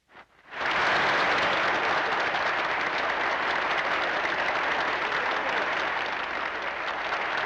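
Audience applauding: a crowd's sustained clapping that starts suddenly about half a second in, after a moment of quiet, and eases off slightly toward the end.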